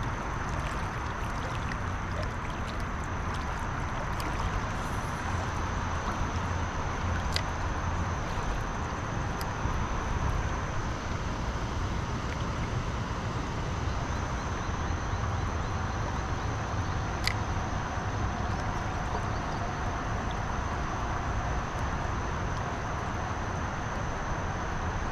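Steady riverside background noise, wind on the microphone and moving water, with a thin steady high-pitched tone running through it. Two sharp clicks, one about a third of the way in and one about two thirds in.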